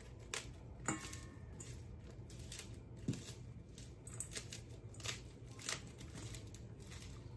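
Hands crumbling soaked matzah into small pieces: faint, scattered soft crackles and clicks.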